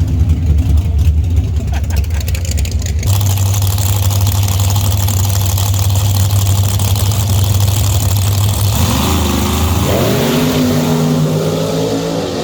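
Race truck engines running, with a steady low drone and general noise rising about three seconds in; near the end an engine revs up, its pitch climbing.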